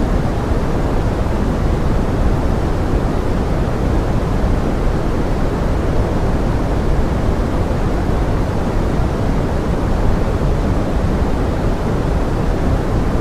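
Steady pink noise mixed as forest rain: an even, unbroken rushing hiss, heavier in the low end, with no separate drops or other events.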